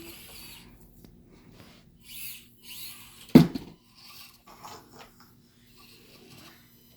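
Faint scattered knocks and rustles, with one sharp, loud knock about halfway through.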